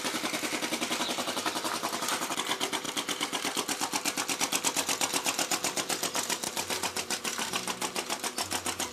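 Small model flame-licker (vacuum) engine running steadily, driving a toy tractor, with a fast, even mechanical ticking beat.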